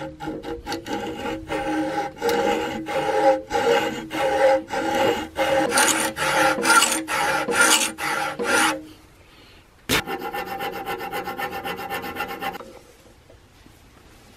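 Hand filing: repeated back-and-forth rasping strokes, about three a second, with a ringing tone under them. They stop, a sharp click follows about ten seconds in, then a quicker run of rasping strokes for a couple of seconds.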